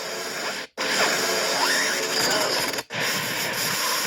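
Emperor Force lightning sound effects from a lightsaber sound font: dense electric crackling and buzzing with sweeping pitch arcs. The sound cuts off abruptly twice, just under a second in and about three seconds in, each time starting again as a new lightning clip.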